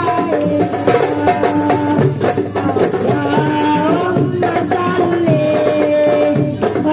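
Marawis ensemble playing: hand drums and frame drums beating a steady rhythm under a sung melody.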